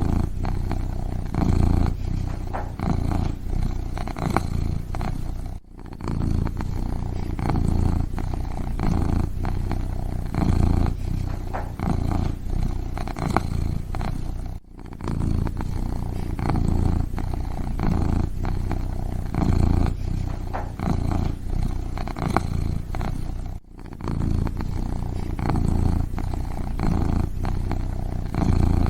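Kitten purring steadily in a continuous low, pulsing rumble, close up, with brief breaks about every nine seconds.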